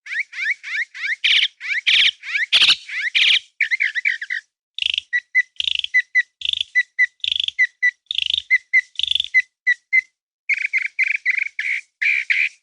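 Songbird singing: a long run of rapid, repeated chirps and whistled notes, phrase after phrase with brief pauses between them.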